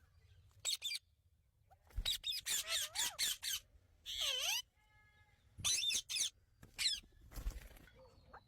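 Indian ringneck parrot squawking and chattering in irregular bursts of short, shrill calls with wavering pitch.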